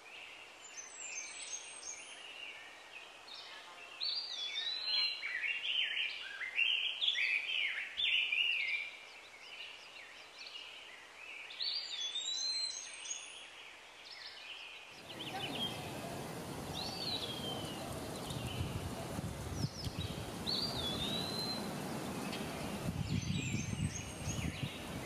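Several wild birds singing and chirping, with short whistled notes that slide up and down. A rushing noise comes in a little past halfway and continues under the song.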